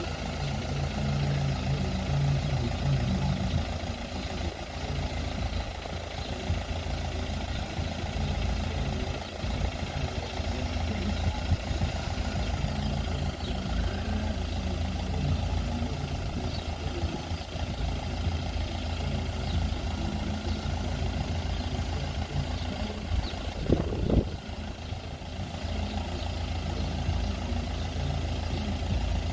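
Road vehicle engines idling and running steadily, with a short louder sound about three-quarters of the way through.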